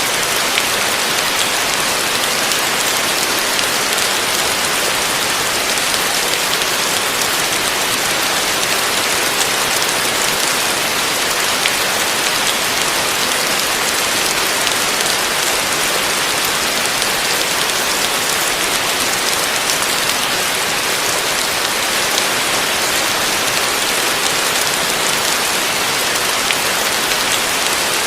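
Heavy rain falling steadily: a dense, even hiss of many drops with faint scattered drop ticks, unchanging throughout.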